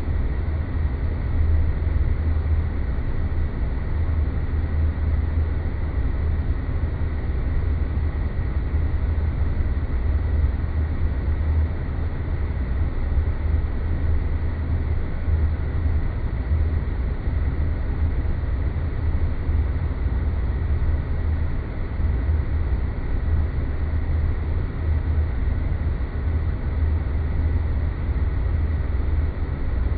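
Sci-fi space-planet ambience: a steady, deep rumbling noise drone with a faint, thin steady tone above it, unchanging throughout.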